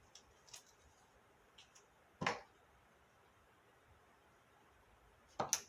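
Cardstock being handled and folded: faint light ticks and rustles, with a short louder paper sound about two seconds in and a quick double one near the end.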